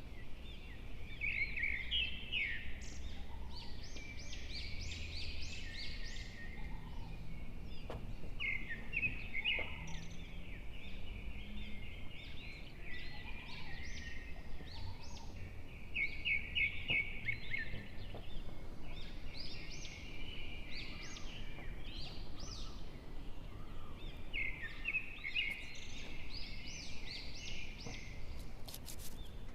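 Birds chirping without a break, many short high notes in quick runs, over a low steady hum.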